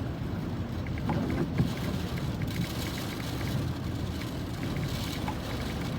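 Sandstorm wind buffeting a car, heard from inside the cabin as a steady low rumble and rush of noise, with a faint regular ticking over it.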